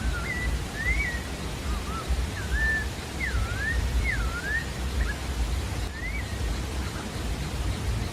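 Sabiá-da-várzea singing: a quick string of short whistled notes that swoop up and down in pitch, thinning out after about six seconds, over a steady low rumble.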